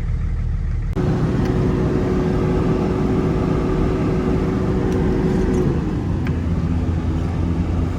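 Vehicle cabin noise while driving: steady engine hum and road noise, with a steady whine that shifts lower about six seconds in.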